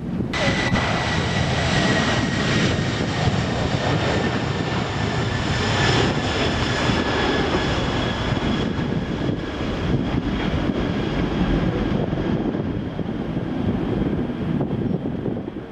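Jet airliner engines running: a deep rumble with a steady high whine near the top. The whine drifts slowly lower and fades toward the end. The sound starts suddenly.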